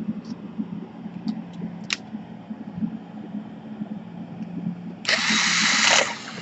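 A low steady hum with a few faint clicks, then about five seconds in a small power tool gives a loud hissing whir for about a second and cuts off suddenly.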